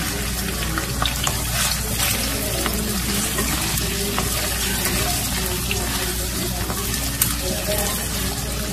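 Potato cubes sizzling in hot oil in a nonstick wok, with a wooden spatula stirring and scraping against the pan, giving scattered light clicks over the steady sizzle.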